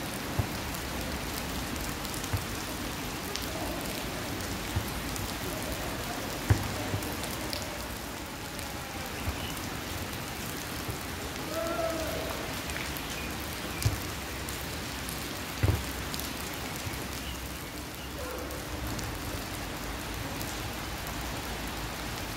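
Steady rain falling, an even hiss of drops, broken by a few sharp knocks now and then, the loudest about six and a half seconds in.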